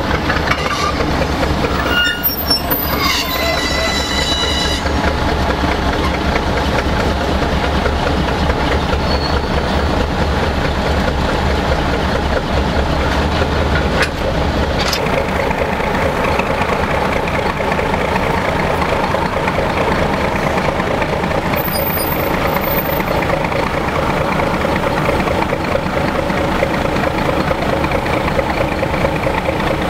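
Engine of a small switcher locomotive running as it moves a coupled steam locomotive along the track, with wheels rolling on the rails. There are a few thin, high squeals a few seconds in, and the engine note changes about halfway.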